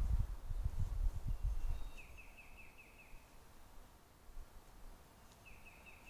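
A bird calling twice, each call a quick run of about six clipped notes, about two seconds in and again near the end, over faint outdoor background. A low rumble fills the first two seconds and is the loudest sound.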